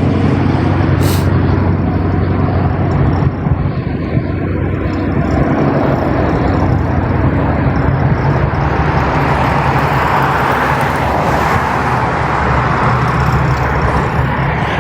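Vehicle on the move: a steady low engine hum under road and wind noise that swells about eight seconds in.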